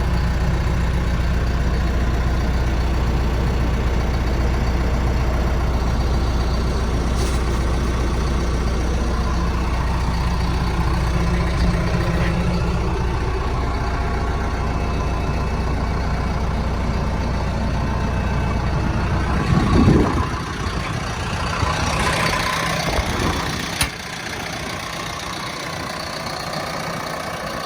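Diesel engine of a 2011 John Deere 6115D tractor idling steadily. About twenty seconds in, the steady engine note breaks up with a brief rising sound, and after a short clatter the level drops to a quieter background.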